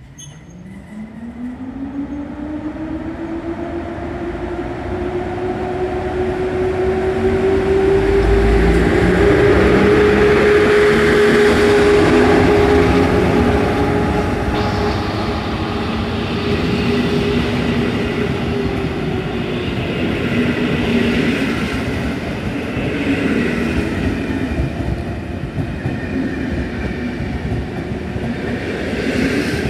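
EP07 electric locomotive hauling an InterCity passenger train past, its traction motors whining with a pitch that rises over the first few seconds and then holds steady. Wheels and coaches rumble and clatter along the rails as the carriages roll by, loudest as the locomotive passes.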